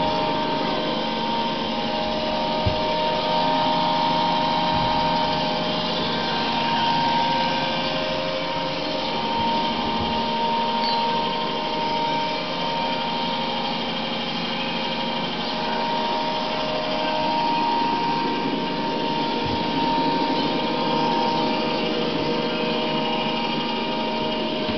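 iClebo Smart robot vacuum cleaner running, a steady motor whine and brush hum with a few faint knocks.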